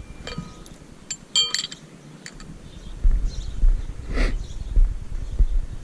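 Metal ramp connector pins and blocks clinking with a brief ring, a few sharp strikes about a second and a half in. From about three seconds in, a low gusty rumble of wind on the microphone.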